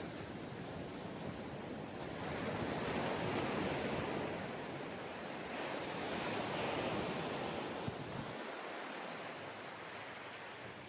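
Sea waves breaking and washing up on a sandy beach, two swells rising and falling in loudness, with some wind on the microphone.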